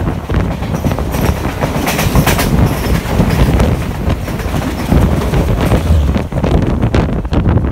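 Two trains passing at speed on adjacent tracks: a dense rush of wheel rumble and rapid clickety-clack as the coaches of an AC express go by close alongside the moving train. The passing train's end goes by about six seconds in.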